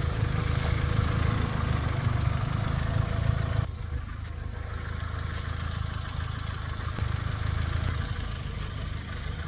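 Honda Civic engine idling steadily after a fresh start, a long-stored car now running. Nearly four seconds in the sound drops and becomes duller, and the idle carries on.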